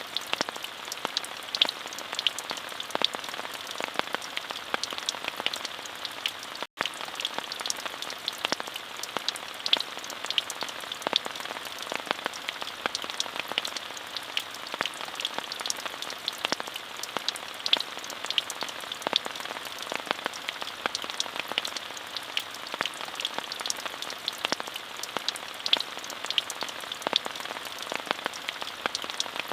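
Steady rain falling, an even hiss full of crisp individual drop ticks, with a split-second gap in the sound about seven seconds in.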